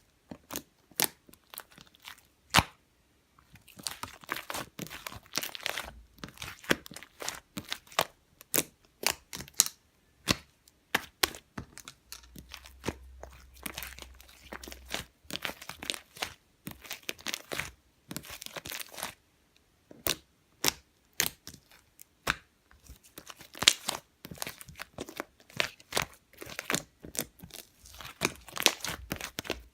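Irregular crinkling, tearing and sharp crackling noises, with many quick clicks coming close together in uneven clusters and no speech.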